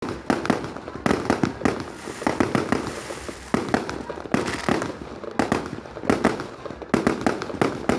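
Fireworks going off in quick, irregular succession: a dense run of bangs and pops, several a second, each with a short echo.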